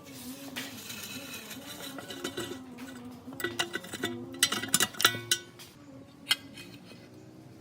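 Small metal parts clinking and ringing against each other, with a cluster of sharp clinks about halfway through, over a low wavering hum.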